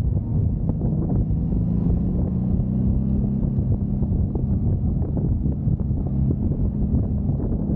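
Honda Magna V4 motorcycle engine running steadily under way, with wind buffeting the microphone.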